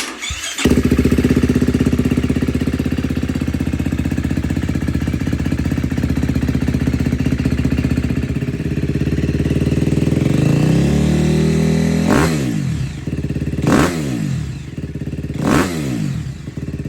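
2020 KTM 250 SX-F single-cylinder four-stroke dirt bike engine with a full FMF exhaust, starting up. It catches about a second in and runs at a steady idle. About ten seconds in the revs climb, followed by three quick throttle blips that rise and fall.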